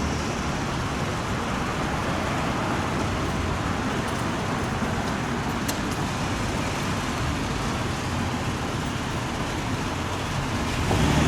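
City street traffic passing: a steady wash of car tyre and engine noise. Near the end a heavy engine grows louder.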